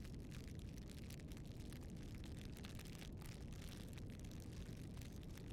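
Campfire burning: a steady low rumble with many small crackles and pops.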